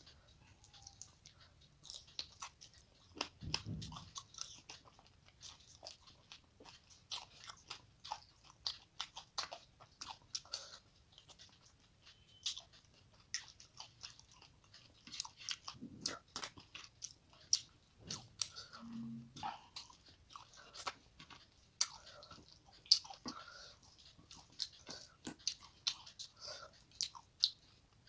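Close-up mouth sounds of eating rice and rohu fish head curry by hand: steady wet chewing with many irregular clicks, smacks and crunches, and a few low thuds.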